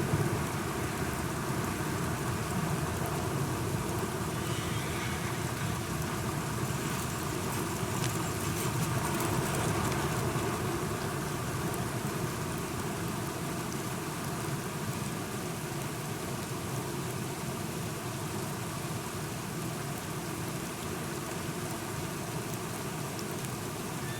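Steady rain falling, an even hiss with a low rumble underneath that swells slightly about a third of the way in.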